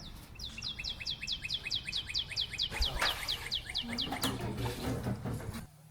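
A bird singing a fast trill of short, downward-sliding whistled notes, about six a second, for about four seconds. A brief rustle comes about three seconds in.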